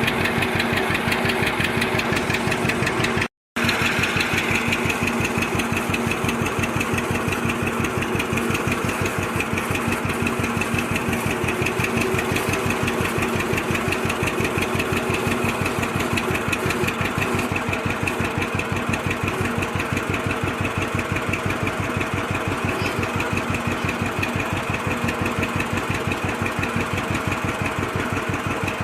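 Antique tractor engine idling with a steady, even firing beat. The sound drops out for a fraction of a second about three seconds in.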